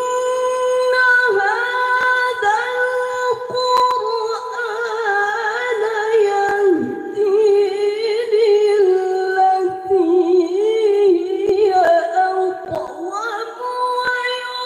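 Solo Qur'an recitation in the melodic tilawah style: one voice holding long, ornamented notes, the pitch turning in small runs and trills within each drawn-out phrase.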